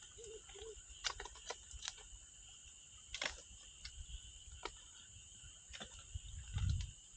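Wood campfire crackling, with scattered sharp pops, over the steady faint chirring of insects. Two short low notes sound about half a second in, and a low rumble rises near the end.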